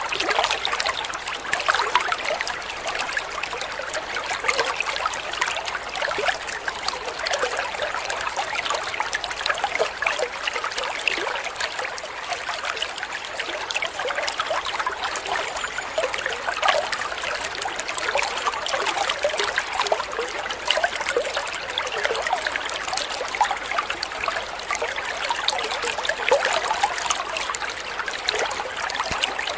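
Small stream of water trickling and babbling steadily, a constant splashing patter.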